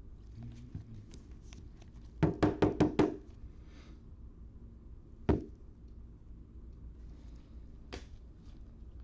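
A quick run of five knocks on a table, then a single sharp knock a couple of seconds later and a faint one near the end, with light handling clicks in between.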